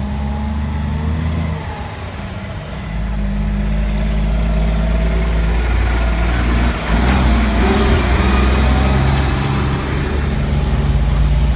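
Diesel semi-truck engine pulling away and accelerating, growing louder about three seconds in and staying loud, with a broad hiss of tyres on wet pavement as it passes.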